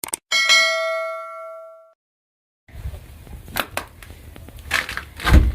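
A bell-like chime rings once and fades over about a second and a half. After a short silence comes wind buffeting the microphone, with scattered light ticks of ice pellets falling and a couple of stronger gusts near the end.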